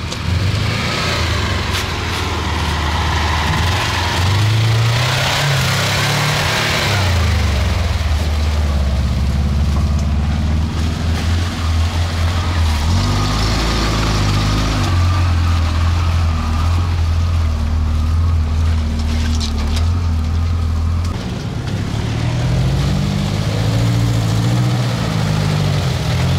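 An off-road vehicle's engine running under load, its revs rising and falling and holding steady for several seconds at a time, with a short drop about three-quarters of the way through before it revs up again.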